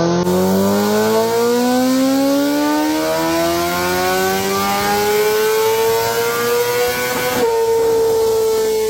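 Superbike engine accelerating, its note climbing slowly and steadily in pitch. About seven seconds in it switches abruptly to another engine held at a steady, slightly sagging pitch.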